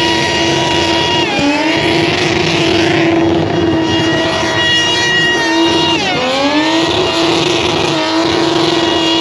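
Car engine held at high revs during a burnout, its pitch steady apart from two brief drops that climb straight back, about a second and a half in and about six seconds in.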